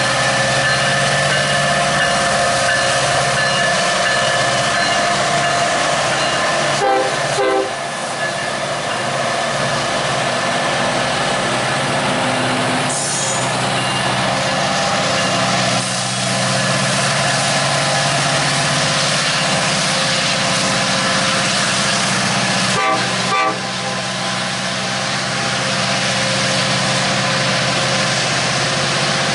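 Union Pacific SD70-series diesel locomotives pulling a freight train past at close range: engines running with a steady heavy rumble and wheel-on-rail noise. The horn sounds over the first several seconds. Two sharp knocks come about seven seconds in and again about twenty-three seconds in.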